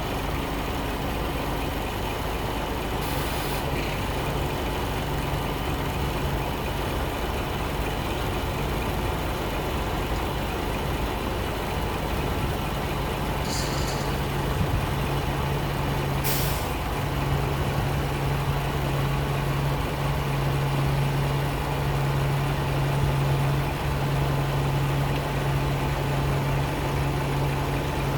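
Scania R 420 truck's 12-litre inline-six diesel engine running steadily at idle, growing somewhat louder about halfway through. Three short air hisses from the truck's air system, the first about three seconds in and the other two close together past the middle.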